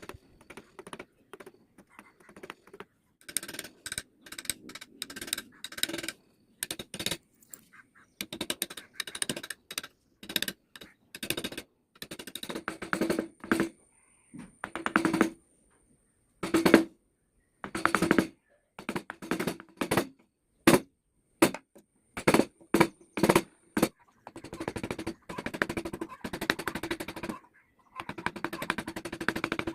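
Wood being carved in a series of short strokes, each a rapid crackling rasp, starting and stopping abruptly with brief pauses between.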